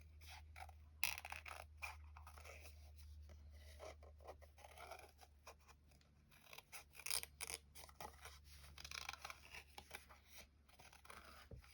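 Small fussy-cut craft scissors snipping paper in faint, irregular short cuts, over a low steady hum.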